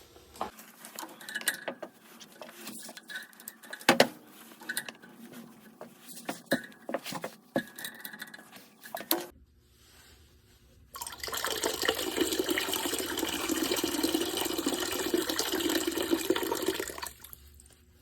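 Scattered metal clicks and knocks of hand work on a steam boiler drain valve. About eleven seconds in, water starts rushing steadily from the valve for about six seconds, then cuts off.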